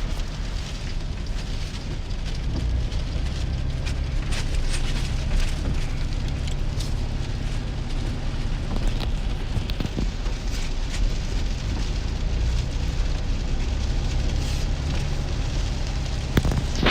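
Heavy rain pattering on a pickup truck's cab and windshield, heard from inside while driving, over a steady low rumble of road and engine noise. A sharp click comes near the end.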